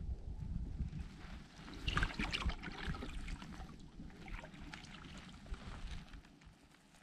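Canoe paddle strokes in water: splashing and trickling drips, strongest about two seconds in and again midway, over a low rumble.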